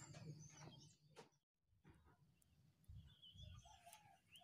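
Near silence with faint bird calls, a few wavering chirps in the second half.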